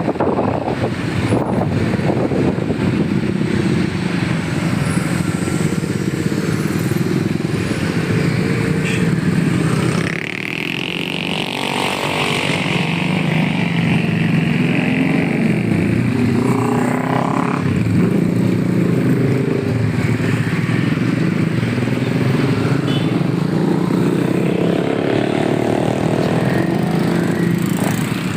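Road vehicle engines, motorcycles among them, running and passing close by. A whine rises and falls about ten seconds in.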